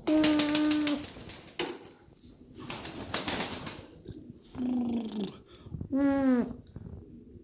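Reversewing pouter pigeons cooing: three low coos, the second and third sliding down in pitch, with a burst of rustling noise between them.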